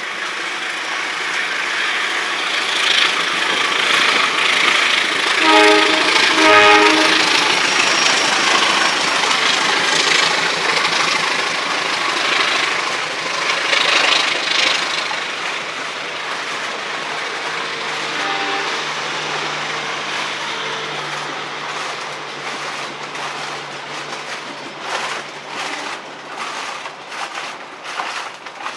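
A train passing close by: wheel and rail noise swells and peaks, with two short horn blasts about six seconds in, then eases off into a run of rhythmic clicks from wheels crossing rail joints near the end.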